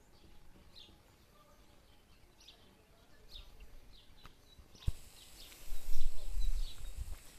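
Small birds chirping outdoors, short high calls about once a second over a quiet background. About five seconds in there is a single knock, then a louder low rumbling noise on the microphone while the camera is moved.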